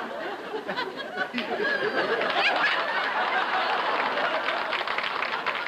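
Studio audience laughing, building louder about two seconds in.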